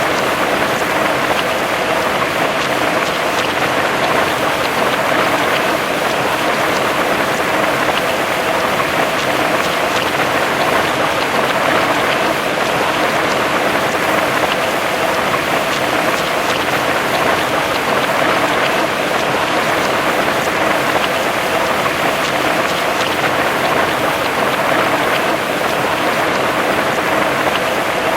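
Heavy rain falling in a steady downpour, an even hiss of dense drops on a surface.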